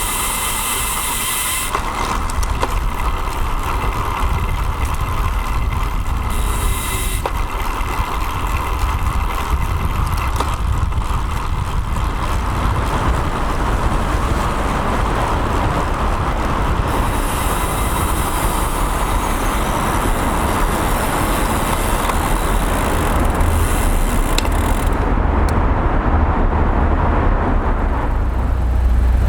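Steady wind and road noise from a road bike in motion, picked up by a bike-mounted action camera's microphone, with a constant deep rumble.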